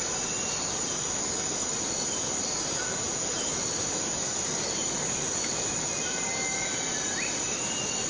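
Steady rain falling in a tropical rainforest, with a constant high-pitched insect drone over it. A few faint short calls come and go, one rising near the end.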